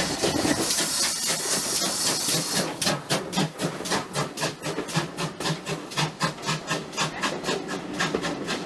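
GWR pannier tank steam locomotive: a steam hiss for about the first three seconds, then its exhaust chuffing in a fast, even rhythm of about five beats a second as it works the train.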